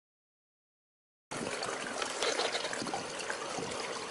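Silence for about the first second, then a steady sound of swimming-pool water trickling and splashing starts abruptly.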